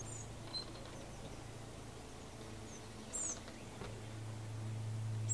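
Birds chirping: a few short, high, falling chirps over a steady low hum. The hum starts abruptly and grows louder about four seconds in.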